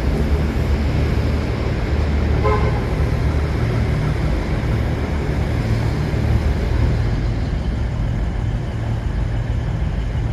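Locomotive engine running steadily with a constant low hum, and a brief high tone about two and a half seconds in.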